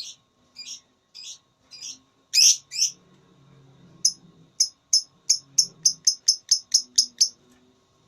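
Lovebird calling: a string of sharp, high chirps about half a second apart, then from about four seconds in a fast, quickening run of chirps that stops shortly before the end. This is the lovebird's long chattering song, known as 'ngekek'.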